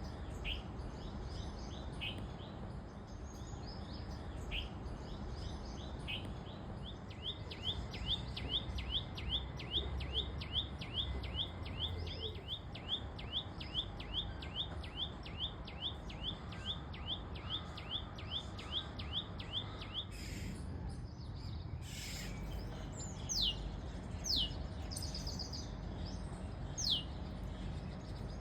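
Birds calling: a long run of short, evenly repeated chirps, about three a second for some thirteen seconds, then a few separate high notes that slide steeply down in pitch. A steady low rumble runs underneath.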